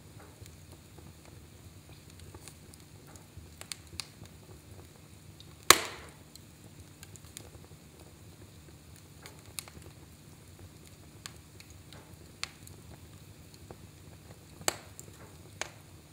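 Log fire in a fireplace crackling, with irregular sharp pops over a low steady hiss; the loudest pop comes about six seconds in.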